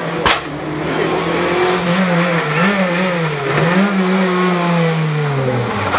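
Rally car engine revving hard, its pitch rising and dipping several times as the driver works the throttle, with a single sharp crack about a quarter of a second in.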